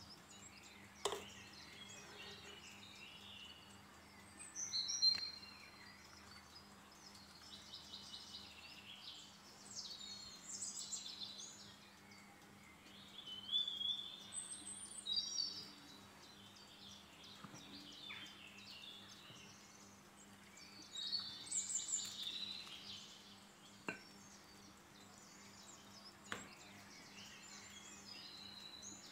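Birds chirping in the background, high calls coming in short spells every few seconds, with a few sharp clicks and a faint steady hum underneath.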